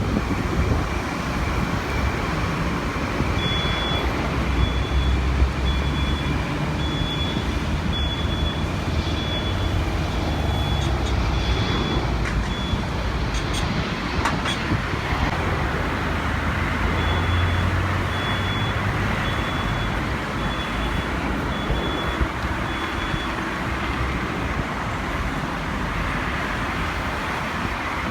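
Steady rumble of vehicle traffic, with a reversing beeper sounding a high beep about once a second in two runs, stopping for a few seconds in between.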